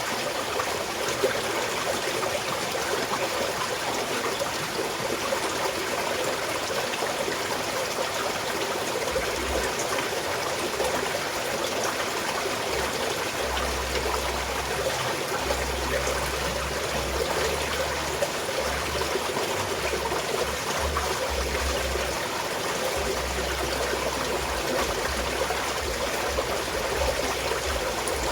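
Small mountain stream flowing steadily, a constant trickling rush of water, with a patchy low rumble coming and going from about nine seconds in.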